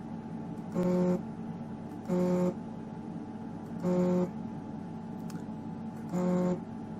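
EMCO Compact 5 lathe's cross-slide (X-axis) stepper motor jogging in 1 mm steps: four short buzzes of about half a second each at a steady pitch, over a steady low hum.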